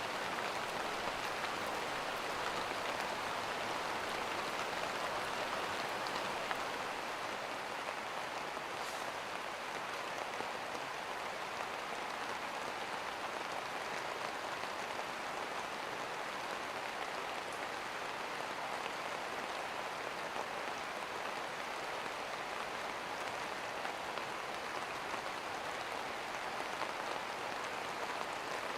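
Steady rain falling on a surface, an even patter and hiss.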